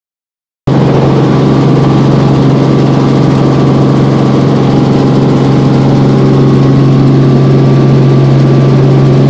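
Helicopter engine and rotor running with a loud, steady drone at a constant low pitch, starting abruptly under a second in.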